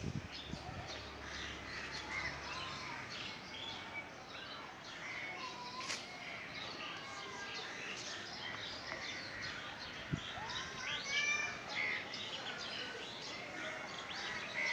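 Many birds chirping and calling over each other in a busy, continuous chorus, with a sharp click about six seconds in and a short knock about ten seconds in.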